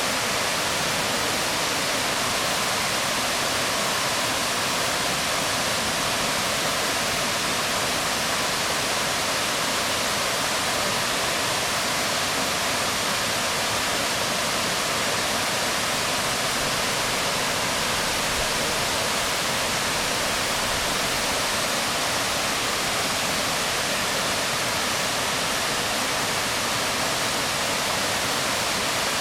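Waterfall falling onto rocks: a steady, unbroken rush of water.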